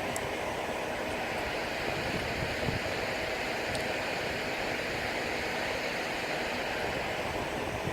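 Steady rush of sea water and wind on a sailboat under way, an even noise that keeps up without a break.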